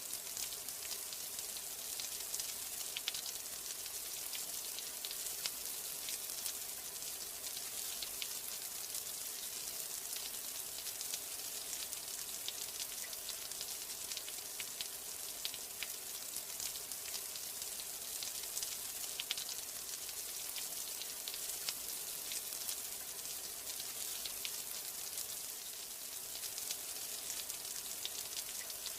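Steady rain: an even hiss sprinkled with many small drop ticks.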